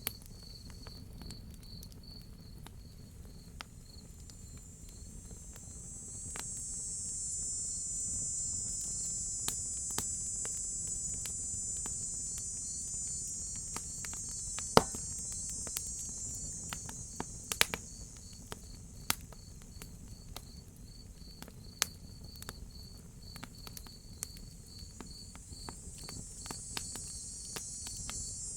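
Crickets chirping in a steady, evenly pulsed trill, with a higher insect buzz that swells up for about ten seconds and fades, then returns near the end. A wood fire crackles over it with scattered sharp pops, the loudest about halfway through.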